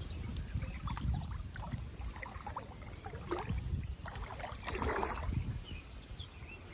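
River water sloshing and splashing at the bank, with wind buffeting the microphone as a low rumble. A denser splash comes near the middle.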